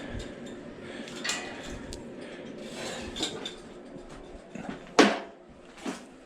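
Metal parts being handled, clinking and clanking, with one sharp, loud metallic clank about five seconds in and a smaller one just before the end.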